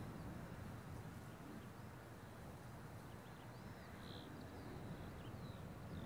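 Small birds chirping faintly, a few short scattered chirps, over a low steady rumble.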